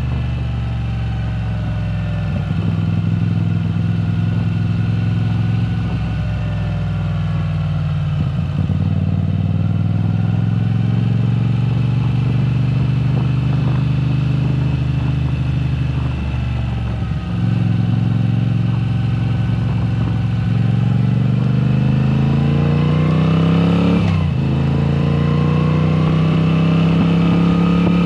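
2022 Moto Guzzi V7 Special's air-cooled 850 cc transverse V-twin running loud through a Mistral exhaust with the dB killers removed. The engine speed holds and wavers, dips about 17 seconds in, then climbs steadily for a few seconds and drops sharply about four seconds before the end.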